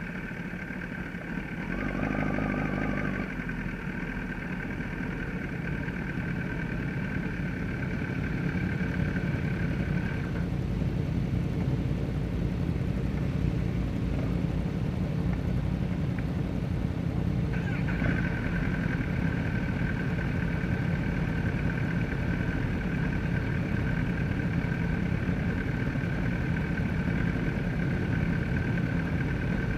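Kawasaki ZX-10R's inline-four engine running at low revs, heard onboard as a steady low rumble with no hard revving.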